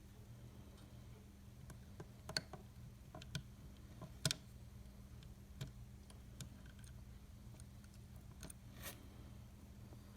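Faint, irregular small clicks and taps, about ten of them, the sharpest about four seconds in, over a steady low hum.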